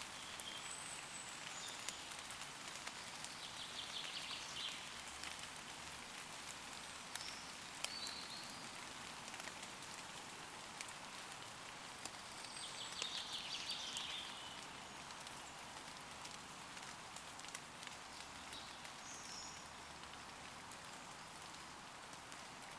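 Steady rain falling on leaves, with fine ticks of individual drops throughout. Small woodland birds call in short high chirps now and then, with a quick trill twice, a few seconds in and again just past halfway.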